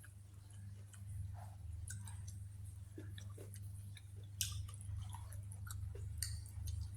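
A person chewing a mouthful of spicy seafood salad with rice noodles, close to the microphone: small irregular wet clicks and smacks, over a steady low hum.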